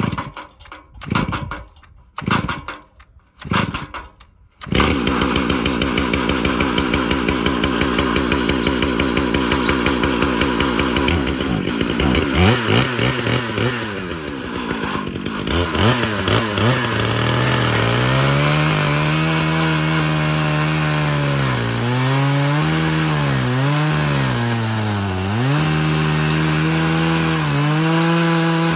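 Two-stroke chainsaw on a chainsaw mill: a few short bursts at the start, like pulls on the starter cord, then it catches about five seconds in and idles. It revs up around twelve seconds in and runs at high speed cutting through live oak, its pitch repeatedly sagging and recovering under the load of the tough cut.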